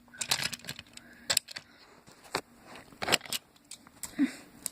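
Irregular light clicks and clatters from toy trains being moved along their track.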